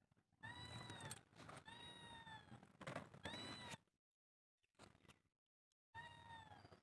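A cat meowing repeatedly: three short arched meows in quick succession, a pause of about two seconds, then another meow near the end.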